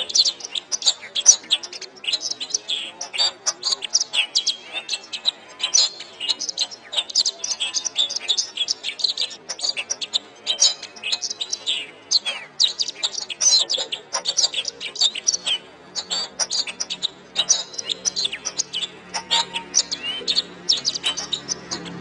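Domestic canary singing a long, continuous song of rapid chirps and trills. A low steady tone comes in underneath about two-thirds of the way through.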